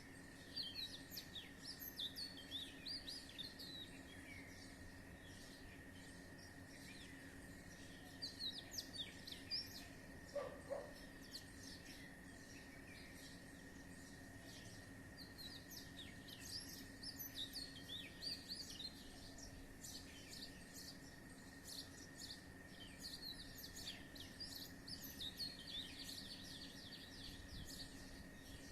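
Many small birds chirping in a tree in the early morning chorus, short high calls coming in clusters, with a steady faint high tone running beneath them.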